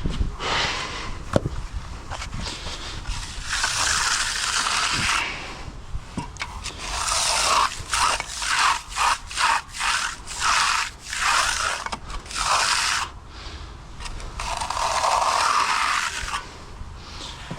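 Stiff broom dragged across wet concrete to give a brushed finish: long rasping sweeps, with a run of short strokes about two a second in the middle.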